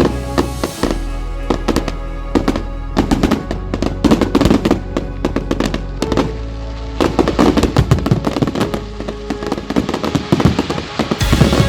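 Fireworks banging and crackling in quick succession, many reports a second, over background music with a steady bass line.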